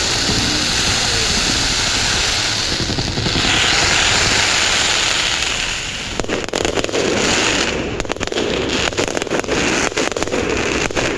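Fireworks: a loud, steady hissing rush for about six seconds, then a dense run of sharp crackling pops that carries on to the end.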